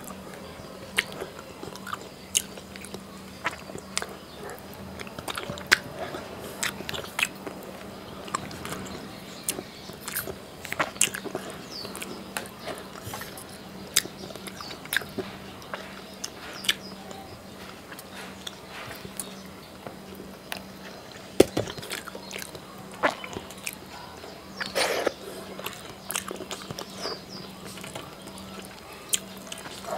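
A man chewing a mouthful of rice and fish curry eaten by hand, picked up close on a lapel microphone: wet chewing with many short, irregular mouth clicks, over a faint steady hum.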